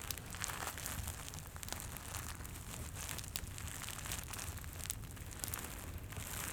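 Close-up crackling and crinkling from a crinkly Santa trigger object being handled: a dense stream of small crackles. A fireplace crackles underneath.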